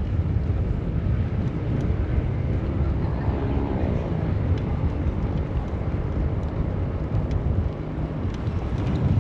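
Wind rumbling on the microphone of a bicycle riding through city traffic, with traffic noise underneath; a faint pitched sound passes about three to four seconds in.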